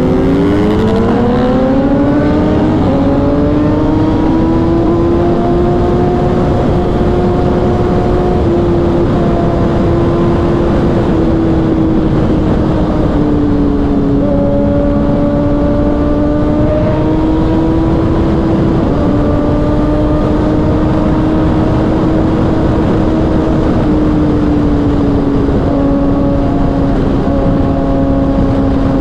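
Kawasaki ZX-6R inline-four with a Racefit Growler exhaust, heard from on board, pulling up through the revs for the first few seconds and then holding a steady high engine speed at highway pace, with small drops in pitch now and then, over a steady rush of wind.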